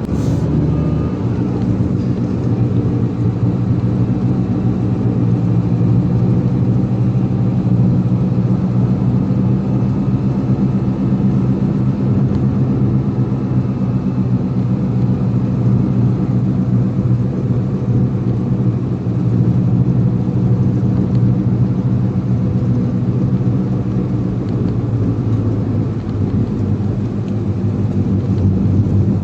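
Motor vehicle driving at a steady speed: a continuous low engine drone mixed with road noise.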